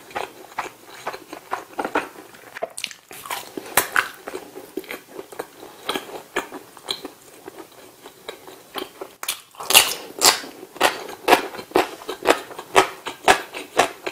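Close-miked eating sounds: soft chewing and small clicks, then from about nine and a half seconds in, loud, crisp crunching of fried chicken at about two crunches a second.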